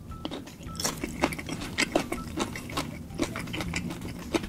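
Close-miked eating sounds: chewing saucy seafood with irregular wet clicks, smacks and crackles several times a second.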